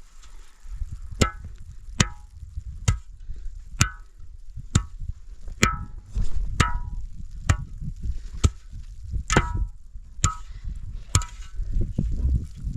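A hand tool striking a hard surface over and over, about a dozen blows at a steady pace of roughly one a second, each with a short ring.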